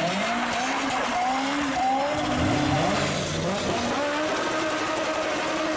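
Honda S2000 engine revving during an autocross run, its pitch climbing and falling repeatedly as the throttle goes on and off, then holding one steady pitch for the last couple of seconds.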